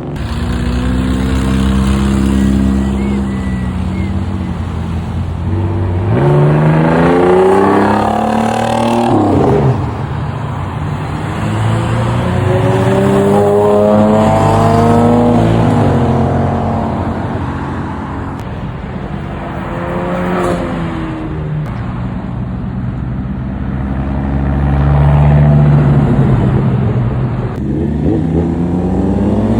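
Car engines revving and accelerating over and over, their pitch climbing and dropping in several long sweeps with loud exhaust between.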